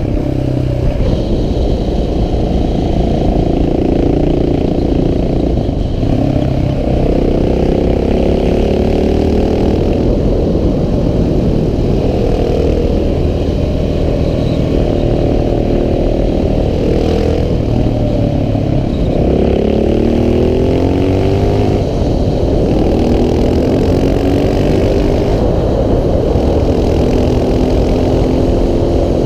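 KTM 690 SMC R's single-cylinder four-stroke engine pulling hard, its revs rising and falling again and again as the bike accelerates and backs off.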